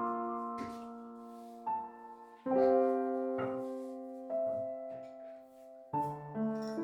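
Soft background piano music: slow, sustained chords, with new chords struck about two and a half seconds in and again near the end.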